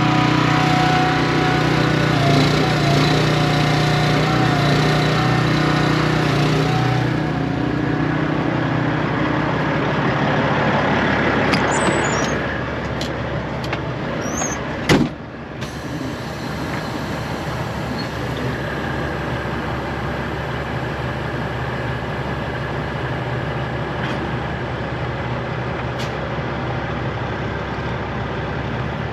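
Straight-piped Peterbilt 389 diesel semi engine idling steadily, louder for the first several seconds. Some short clicks and hissing come about halfway through, then one sharp bang.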